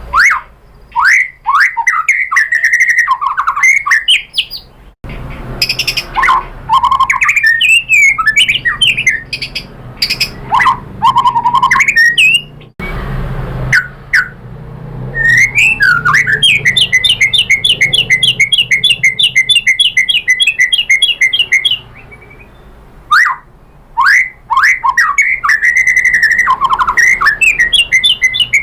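White-rumped shama singing loudly: varied whistled and chattering phrases that sweep up and down. In the middle it gives a long, fast rattling trill of evenly repeated notes. The bird is running through its repertoire of mimicked material (isian).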